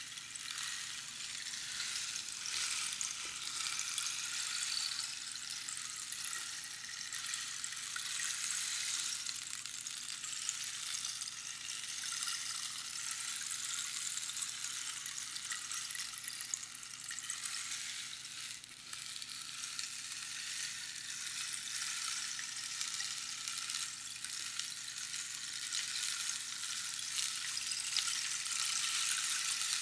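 Rainstick: a continuous fine patter of pebbles trickling down through the tube past its inner pins, like light rain, swelling and easing slightly and a little louder near the end.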